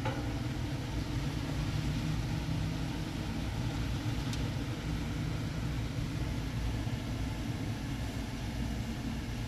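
Steady low rumble of a car in an express tunnel car wash, with an even hiss above it. There is a short click at the very start.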